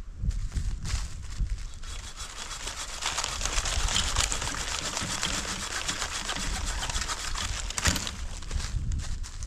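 Dense crinkling and crackling, from a couple of seconds in until about eight seconds, with a few sharper knocks around it.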